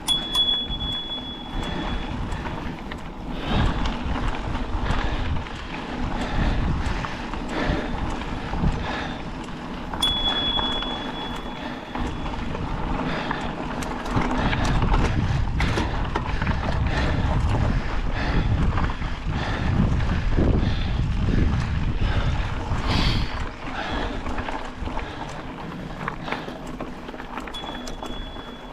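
Wind buffeting a camera microphone, an uneven rumble with scattered knocks and clicks. A thin, steady high tone sounds three times, about two seconds each: near the start, about a third of the way in, and near the end.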